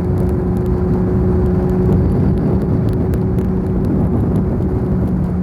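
2019 Suzuki Hayabusa's inline-four engine at a steady expressway cruise, with a constant pitch and no revving, under steady wind and road rumble.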